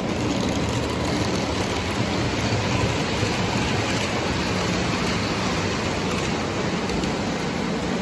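O gauge model train running steadily on its track, a continuous rolling rumble of wheels and motor.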